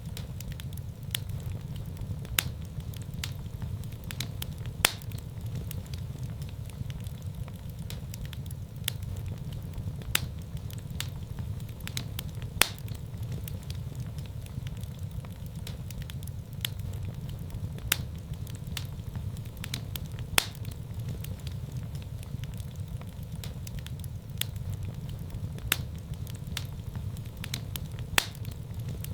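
Wood fire in a fireplace burning, a steady low rumble of the flames with sharp, irregular crackles and pops, a few louder snaps every few seconds.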